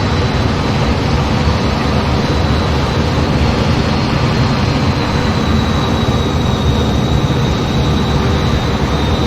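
Jet aircraft engine running steadily, a loud even rush with a thin high whine that dips slightly in pitch about halfway through.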